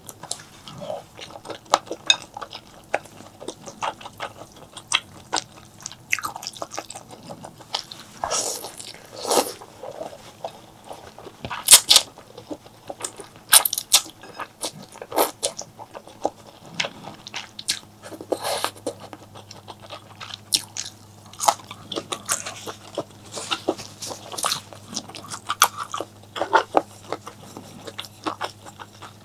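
Close-miked eating: chewing and biting with many sharp, crunchy mouth clicks, and a few longer, louder wet sounds along the way.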